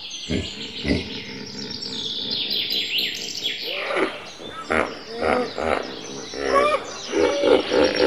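Wild birds chirping and singing, with many overlapping calls. The calls are sparse at first and grow busier from about halfway, when lower repeated calls join in.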